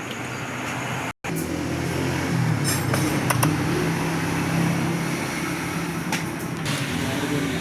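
A steady low mechanical hum with a few light metallic clicks, cut off for a moment about a second in.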